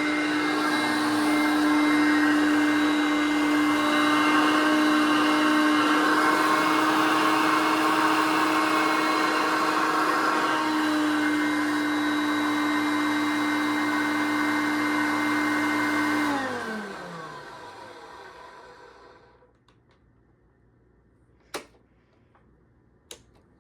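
1978 Hoover Concept upright vacuum cleaner's motor running steadily on the one motor speed that still works, then switched off about sixteen seconds in, its whine falling in pitch as it spins down over about three seconds. Two sharp clicks follow near the end.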